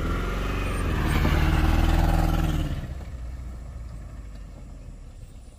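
An old car's engine revving as the car pulls away. The pitch rises over the first second, the sound is loudest about two seconds in, and it then fades steadily as the car drives off.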